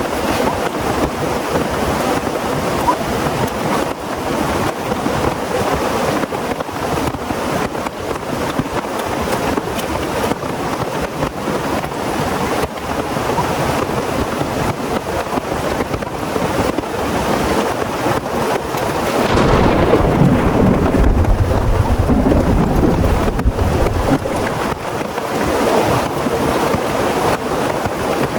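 Heavy rain pouring steadily, with a deep rumble of thunder lasting several seconds about two-thirds of the way through.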